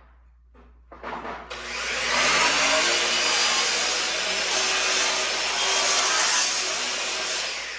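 A power tool motor starting up, running steadily for about six seconds, then starting to wind down near the end.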